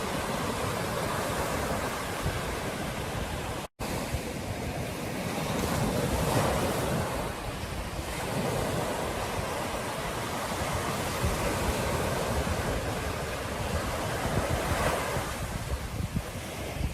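Ocean surf breaking and washing onto a beach, with wind noise on the microphone. The wash swells a couple of times, and the sound drops out for an instant about four seconds in.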